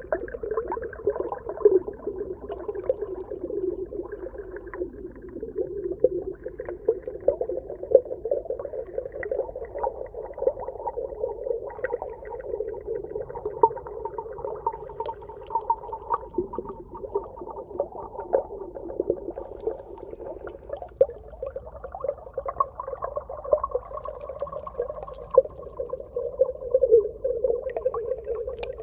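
Underwater ambience: a steady muffled drone with a constant scatter of small clicks and pops.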